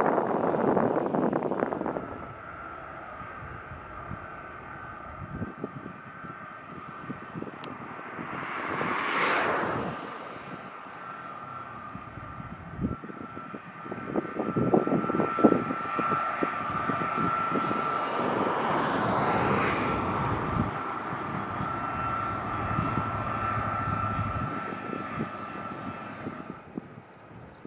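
The four turbofan engines of a Boeing C-17 Globemaster III running, with a steady high whine over a broad jet rush that swells twice and fades near the end.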